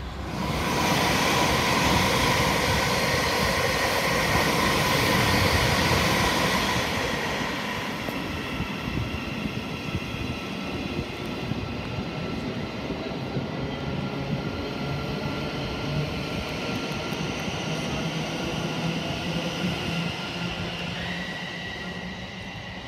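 Electric passenger train running on the main line. A loud rush of wheel-on-rail noise lasts from the start to about seven seconds in, then settles into a quieter, steady rumble with a faint held whine.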